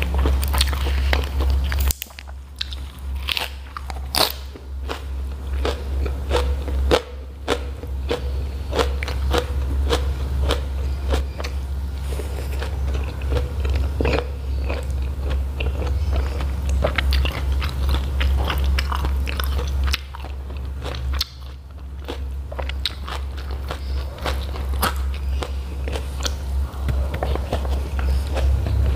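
Close-miked eating: chewing and crisp crunching of raw bok choy stalk, with many small wet clicks from the mouth, over a steady low hum.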